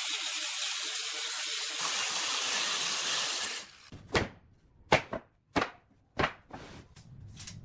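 A steady, loud hiss, typical of a woodworking power tool or air blower, cuts off about three and a half seconds in. It is followed by a string of about eight sharp knocks on wood, irregularly spaced about half a second apart.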